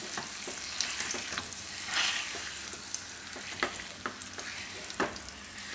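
Chopped dates frying in ghee in a nonstick kadhai while a spatula stirs and scrapes them, with a few light knocks of the spatula against the pan. The dates are being roasted in the ghee until soft.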